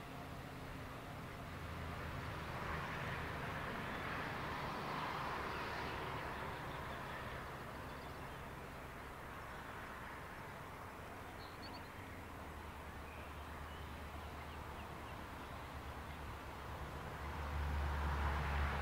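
Container freight train rolling away over the rails, its wheel-on-rail rumble slowly fading. Near the end a low hum and rising rumble build as another electric locomotive approaches.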